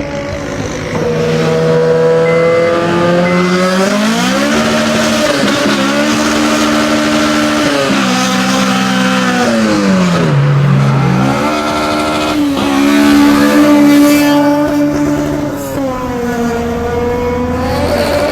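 Honda K20 four-cylinder engine running hard, its note climbing in several steps, dropping and swooping back up about ten seconds in, then rising again near the end.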